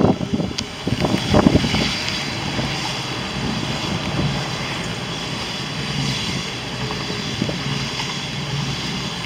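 Express passenger train running through at speed directly below, a steady rush of running noise with a low hum. Wind buffets the microphone in the first second or so.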